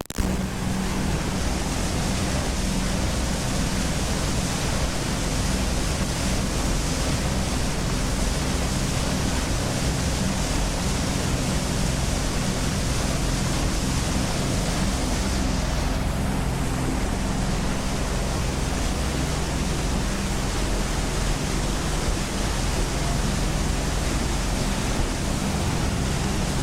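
Party boat underway: a steady rush of wind and water over a low, even engine drone.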